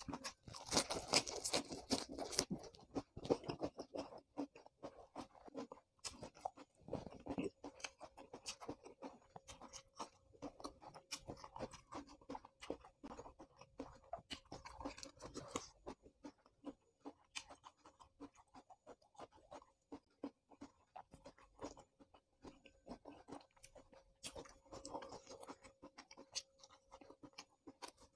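Close-up crunching and chewing of raw leafy vegetables. It is loudest in the first couple of seconds, then settles into a steady run of wet chewing clicks.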